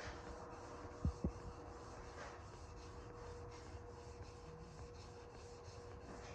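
Faint rubbing of abrasive paper being worked over small-block Chevy crankshaft journals, with two light knocks about a second in.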